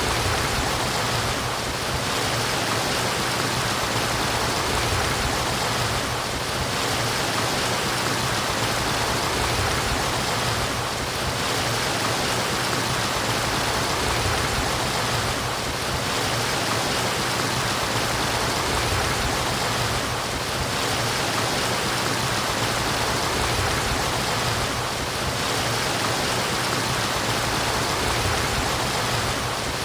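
Running water murmuring steadily, a stream flowing, with a slight dip in level about every four to five seconds.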